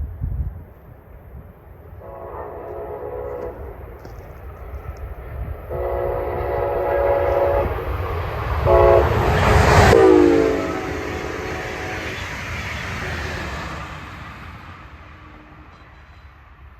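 Diesel freight locomotive's air horn sounding the grade-crossing signal: two long blasts, a short and a long. The horn's pitch drops as the locomotive passes about ten seconds in, amid the loudest rush of train noise, and the rumble then fades away.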